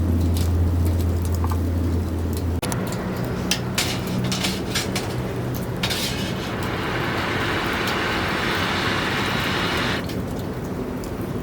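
Campfire crackling in scattered sharp pops over a low steady hum. From about six and a half seconds in until about ten seconds, a steady hissing sizzle joins, as of meat searing.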